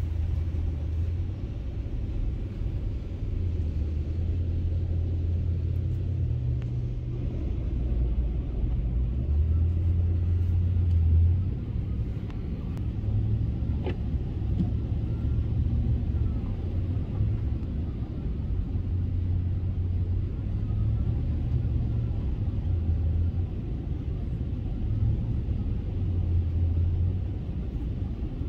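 Vehicle engine and road noise heard from inside the cab: a steady low rumble that swells and eases every few seconds as the truck drives.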